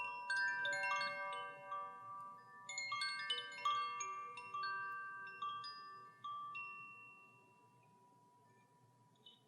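Metal chimes struck in a loose cascade of bright, ringing notes that overlap and slowly decay. The notes thin out and fade to near silence about eight seconds in, with one faint tap near the end.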